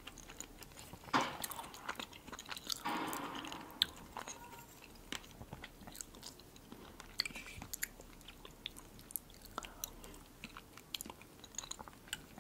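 Close-miked chewing of soft food, with wet mouth clicks and a few light taps of a fork on a plate.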